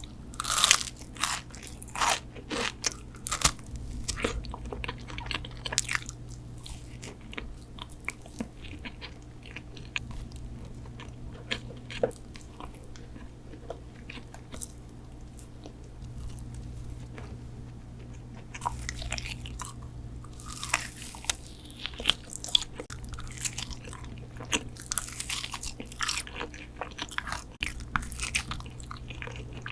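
Close-miked eating sounds: crunchy bites and chewing of sweet food. The crunches come in clusters near the start and again in the second half, with quieter chewing between.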